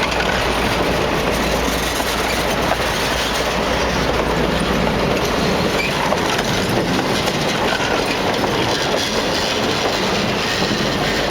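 Skunk Train passing close by on its rails, its cars' wheels clattering steadily over the rail joints with a continuous rumble.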